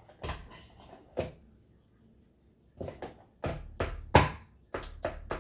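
Handling noises of opening a toy's packaging with scissors: scattered knocks and clatters, the loudest about four seconds in, then a quick run of clicks about four or five a second.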